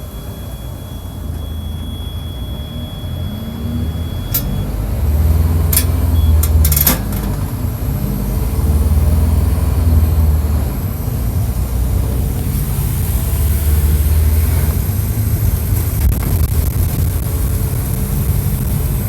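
Mercedes-Benz OF-1722 bus's diesel engine, heard up close, running hard under acceleration. Its revs climb and fall back several times as it works through the gears. A few sharp clicks or rattles come in the first half.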